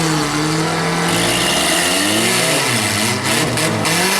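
Engines of demolition-derby compact trucks and vans revving, several at once, their pitch rising and falling over a loud rumble.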